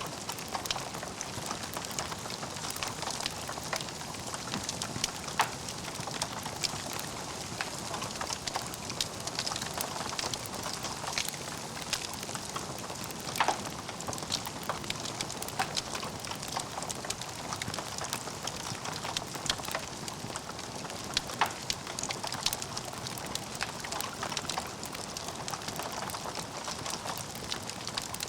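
Wood fire burning in a fireplace, crackling steadily with many small sharp clicks and a few louder pops.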